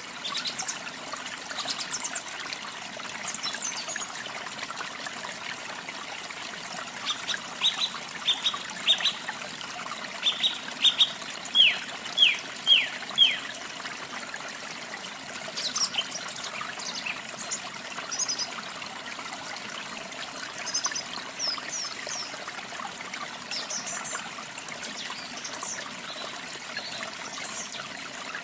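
Water trickling steadily with birds chirping over it. About a quarter of the way in comes a run of quick downward-sweeping notes that grows louder and stops about halfway through, with scattered high chirps before and after.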